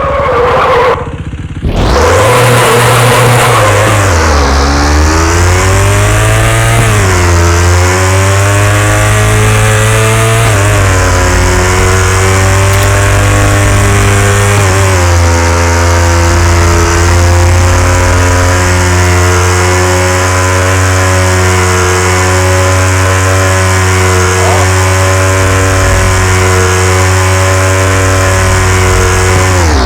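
KTM Duke 390 single-cylinder engine revving hard, its pitch rising and falling several times, then held at a fairly steady high rev for the rest of the time.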